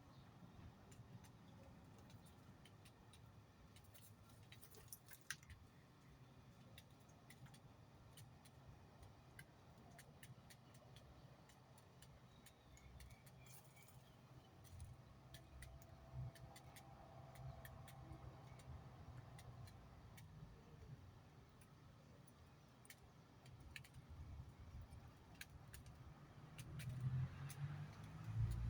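Near silence: a low hum with scattered faint clicks.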